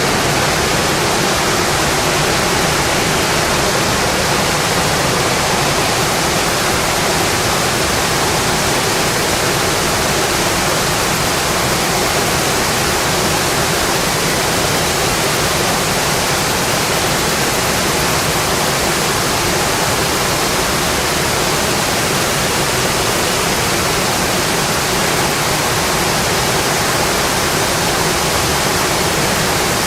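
Steady rain, an even hiss that never changes.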